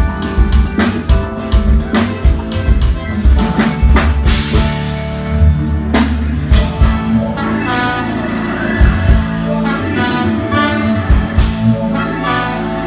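A band playing during a soundcheck: drum kit with kick drum and snare hits over bass and other pitched instruments. After a heavy hit about halfway through, the drums drop back and the sustained instruments carry on, with the drums returning near the end.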